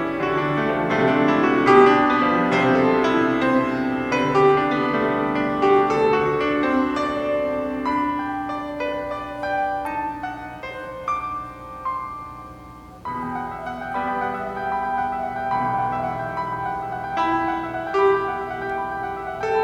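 Piano playing a slow, chordal piece. The notes ring on and fade, the music dies down to a pause about two-thirds of the way through, then a new phrase begins.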